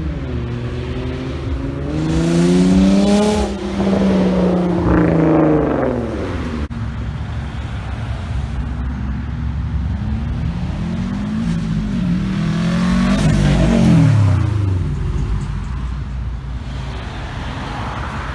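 Cars driving out of a car show, engines revving as they accelerate past. One louder pass comes a couple of seconds in with rising engine notes, and another around twelve to fourteen seconds, its pitch rising and then dropping as it goes by.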